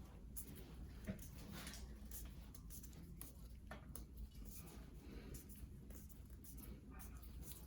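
Faint, irregular scraping strokes of a scalpel blade shaving down thick, hard callus on the sole of a foot.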